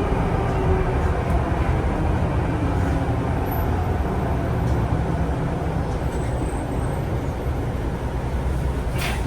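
Steady low rumble of a city public-transport vehicle in motion, with a faint whine that falls away in the first moment and a short click near the end.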